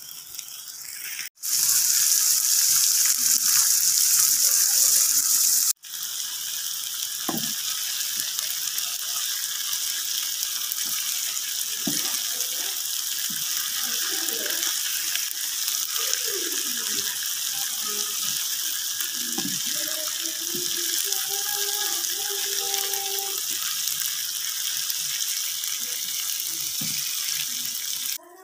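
Shredded tongkol fish in a spicy chili sauce sizzling and bubbling in a non-stick wok as its liquid cooks down, while a slotted spatula stirs and scrapes through it. A louder stretch of hiss starts and stops abruptly in the first six seconds.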